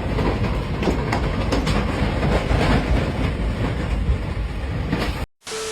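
Loud, steady vehicle rumble and rattle with irregular clicks and knocks, which cuts off abruptly near the end; a steady beep-like tone with hiss starts right after.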